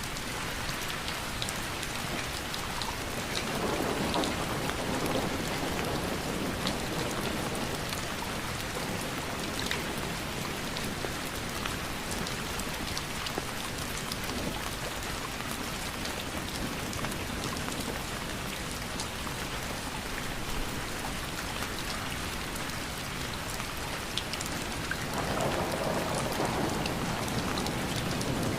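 Steady rainfall, an even hiss dotted with fine drop ticks. A low rumble of thunder swells twice, about four seconds in and again near the end.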